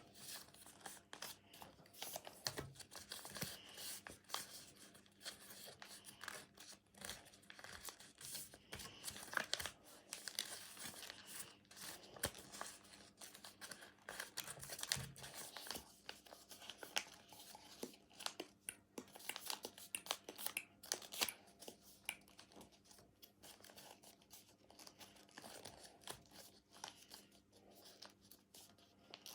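Sheet of paper rustling and crinkling as it is folded and creased by hand into a paper airplane, a faint, continuous run of quick irregular crackles.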